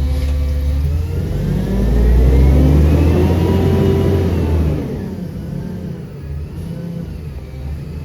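CNG Peterbilt garbage truck engine revving up, its pitch rising over a few seconds, holding, then dropping back with the level falling a little before five seconds in.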